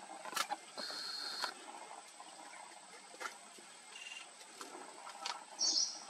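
Forest ambience with a few short, high-pitched bird calls: a held note about a second in, a brief note near the middle, and the loudest call just before the end. Scattered thin clicks run between them.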